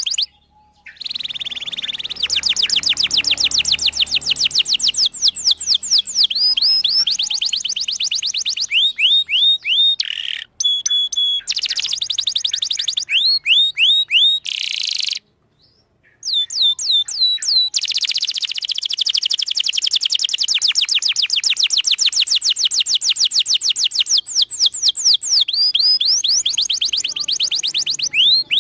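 Domestic canary singing long, fast trills of repeated sweeping high notes, changing from one rolling phrase to the next, with two brief silent breaks, one about a second in and one about fifteen seconds in.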